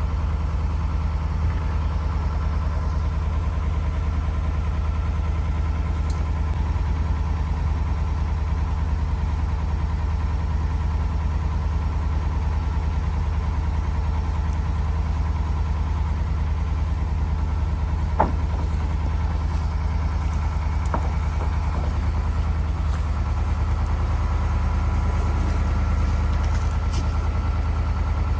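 Truck engine running steadily, with one short click about two-thirds of the way through.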